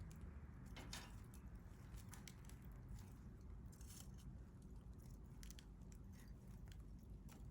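Wood fire burning quietly, with faint, irregular crackles and small pops over a low, steady rumble.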